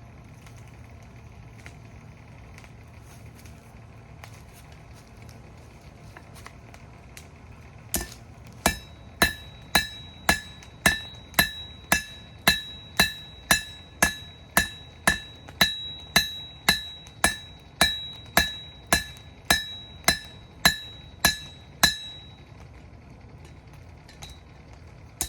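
Hammer striking hot steel on an anvil in a steady forging rhythm, about two blows a second. Each blow is a sharp clang with a short ring. The hammering starts about eight seconds in and stops a couple of seconds before the end, with one more blow right at the end.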